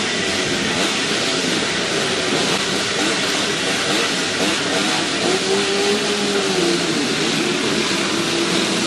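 Classic twinshock motocross motorcycles racing, with engines revving up and down over a steady din. One engine's note rises and then falls about halfway through.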